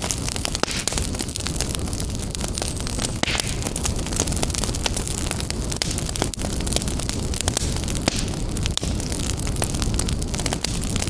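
Wood fire burning in a fireplace, with a steady low rumble of the flames and frequent sharp crackles and pops from the logs.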